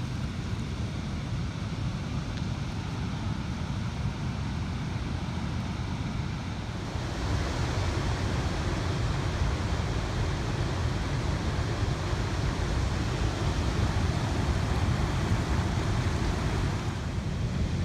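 Steady rushing noise, strongest in the low rumble, growing louder about seven seconds in.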